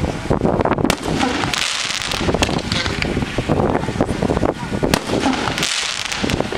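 500-gram consumer fireworks cake ('Feel the Fire', 7-shot, 3-inch) firing, its shells going off as a dense run of sharp bangs and pops in quick succession.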